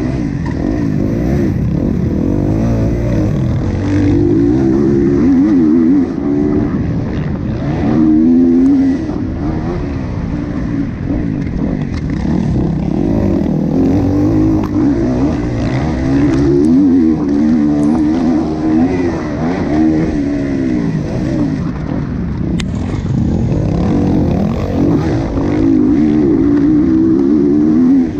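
Motocross bike engine racing around a dirt track, revving up and easing off again and again, its pitch climbing and dropping through the gears.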